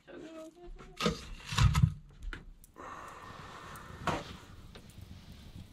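Split birch firewood logs clunking and knocking as they are lifted from a stack and fed into a wood stove, several knocks in the first three seconds. Then the burning stove gives a faint steady hiss with a single crackle about four seconds in.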